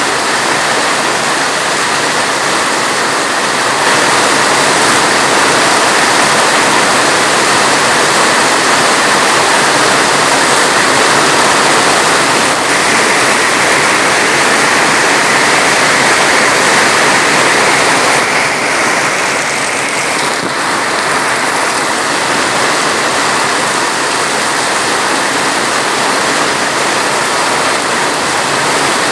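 Heavy rain falling steadily, a dense even hiss that swells slightly for a while before easing back.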